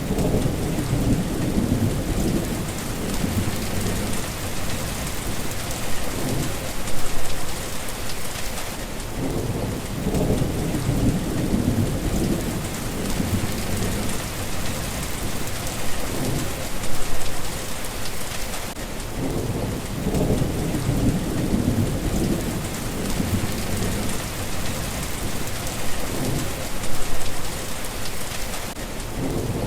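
Steady rain with low rolls of thunder that swell and fade about every ten seconds.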